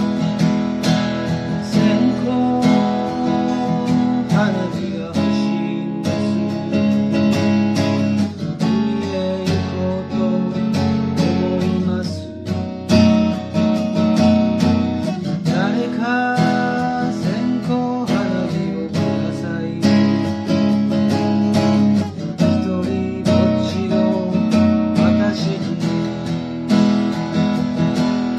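Martin D-76 steel-string acoustic guitar strummed in a steady rhythm of chords, with a melody line over it that bends in pitch now and then.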